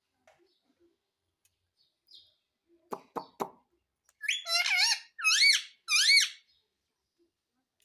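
Indian ringneck parrot giving about four high-pitched calls in quick succession, each bending up and down in pitch, after a few short clicks.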